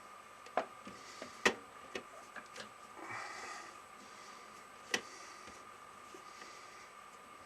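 Hand-work sounds at a bench: a few sharp clicks and taps, the loudest about a second and a half and five seconds in, and a short rustle about three seconds in. A faint steady high hum runs underneath.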